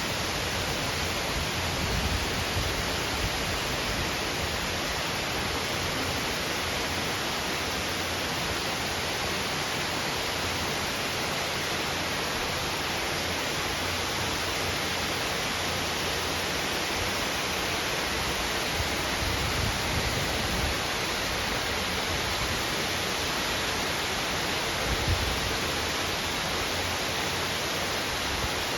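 Heavy rain pouring down in a steady, dense hiss, with a few low gusts of wind near the end.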